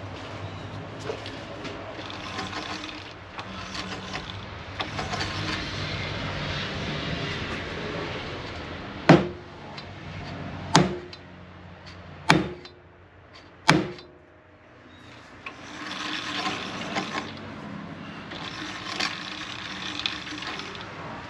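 Four sharp knocks about a second and a half apart: the brazed mower spindle housing being bumped in the lathe chuck to true it up, amid rubbing and handling noise.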